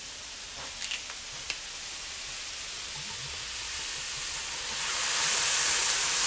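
Vegetables and chicken sizzling in a hot wok over a kettle grill, with a few light clicks about a second in. Near the end the sizzle swells to a loud, bright hiss as liquid from a bottle is poured in to deglaze the hot wok.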